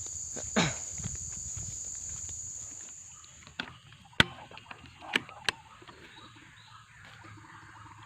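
Insects droning at a steady high pitch, stopping about three and a half seconds in, followed by several sharp clicks and knocks.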